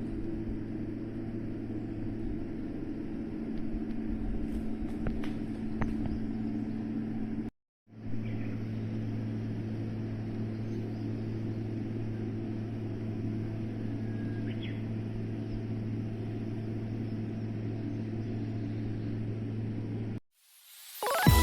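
A steady low mechanical hum, broken once by a brief dropout about a third of the way through, with a few faint high chirps.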